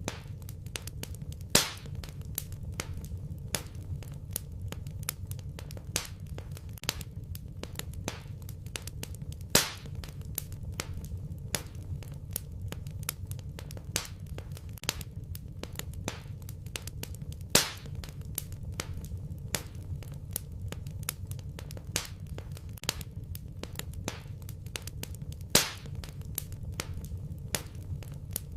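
Fireplace fire crackling: a steady low rumble of flames under dense small snaps and ticks, with a louder pop about every eight seconds.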